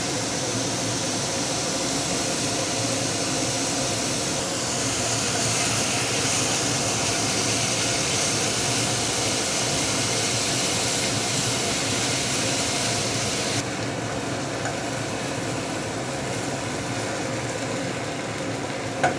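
Steady hiss over a low mechanical hum, like a kitchen fan or appliance running. The upper part of the hiss cuts off suddenly about two thirds of the way through, and a short sharp click comes at the end.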